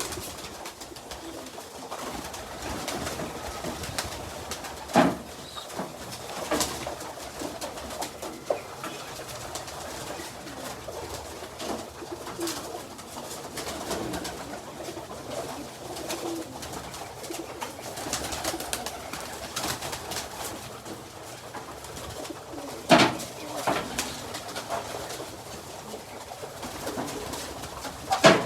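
Pigeons cooing over and over, low and soft, with a few sharp knocks; the loudest come about five seconds in, around twenty-three seconds in and right at the end.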